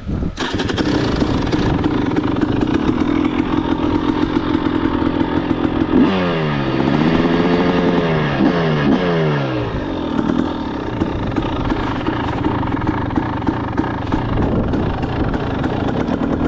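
KTM 300SX's two-stroke single-cylinder engine running at high, steady revs. About six seconds in the revs drop sharply, swing back up and fall again over a few seconds, then settle back to a steady high pitch.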